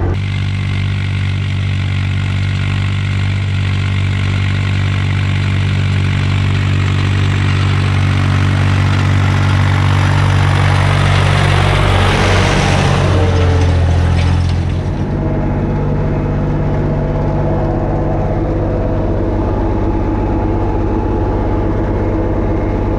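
Ursus 360 3P tractor's four-cylinder diesel engine running steadily under load while working a field. A hissing rush builds in the middle, and about two-thirds of the way through the engine note changes abruptly and settles lower.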